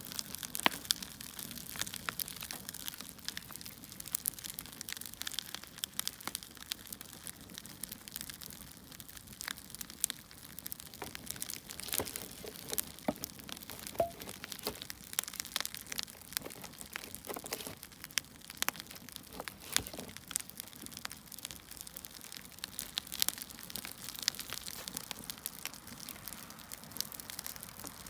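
Crackling of a wood fire: irregular sharp pops and snaps over a steady hiss.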